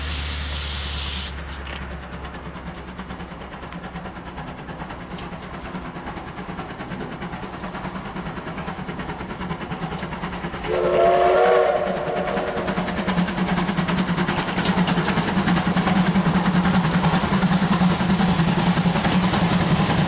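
Steam locomotive C12 66 sounding its steam whistle once, a single blast about a second long near the middle. After it the train's running noise and rapid wheel clatter grow louder.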